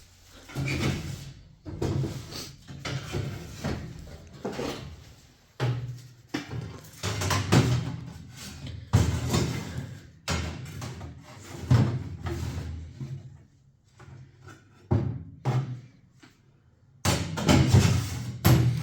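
Irregular knocks and thuds of objects being handled, with background music.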